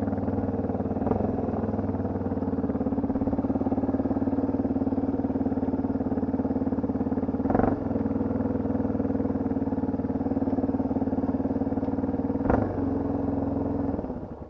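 Enduro motorcycle engine running at a steady pitch, with two sharp knocks, one about halfway through and another near the end. The engine then cuts off, and it goes quiet.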